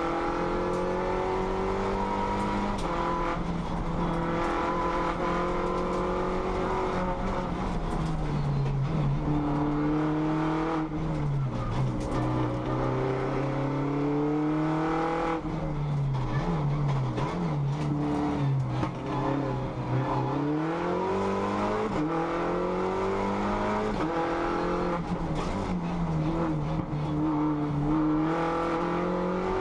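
Race car engine heard from inside the cockpit under hard driving on a winding climb: the revs rise in long sweeps, then fall each time it lifts off for a bend, with several quick drops and climbs around the middle.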